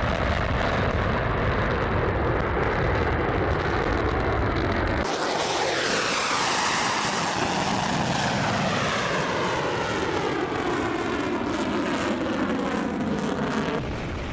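Aircraft engine noise: a steady rumble, then, after an abrupt change about five seconds in, an aircraft passing by with its engine pitch sliding steadily down.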